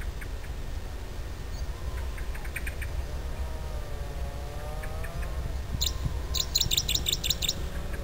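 Wild birds calling: a few quick high chirps, then a drawn-out call that dips and rises, then a fast run of about six sharp high chirps near the end, over a steady low rumble.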